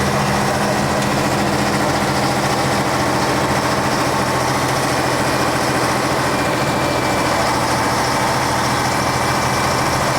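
Diesel engine of a 1966 Scania-Vabis BF56 bus running at a steady, unchanging speed, with a steady low hum.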